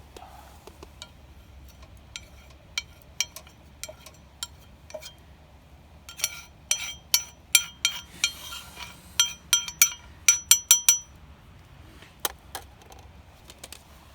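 Metal utensil clinking against metal cookware: scattered light ringing taps, then a quick run of sharper clinks in the middle, with a few more near the end.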